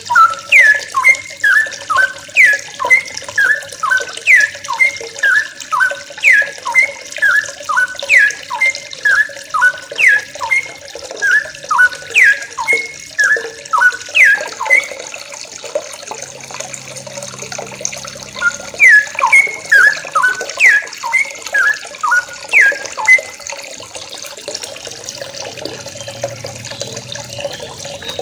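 A flock of young yellow-vented bulbuls calling together, a dense run of short, quick falling chirps overlapping at several pitches. The calling eases off twice, once in the middle and again near the end.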